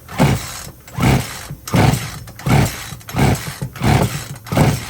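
Poulan Pro 42 cc two-stroke chainsaw pulled over on its recoil starter seven times in quick succession, about one pull every 0.7 s, the engine turning over without firing. This is a compression test with the throttle held wide open, which reads almost 120 psi, low enough that the owner suspects a ring problem.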